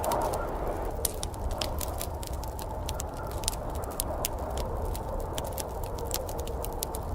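Wood fire crackling, with frequent sharp irregular pops and snaps, over a steady low rushing background.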